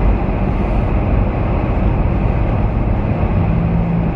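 Steady low rumble of a car driving, road and engine noise, with a faint low hum rising out of it near the end.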